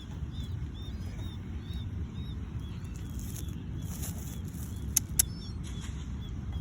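Steady low background rumble with faint, rapid high chirps repeating about three times a second, and two sharp clicks about five seconds in.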